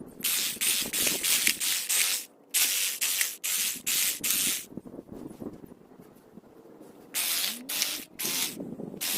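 Hand trigger spray bottle squirting cleaning solution onto a headstone, short sharp squirts in quick runs of several, with a pause of about two seconds midway.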